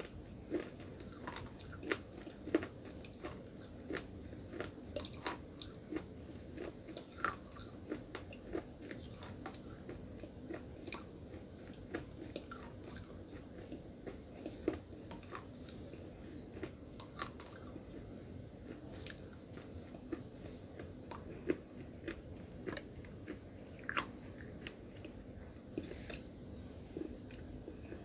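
Slate pencils and nakumat clay being bitten and chewed close to the mouth: sharp, irregular crunches about once a second, with softer chewing between them.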